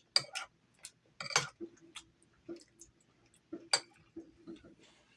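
Irregular sharp clinks and clicks of cutlery and dishes being handled, the loudest two about a second and a half and nearly four seconds in.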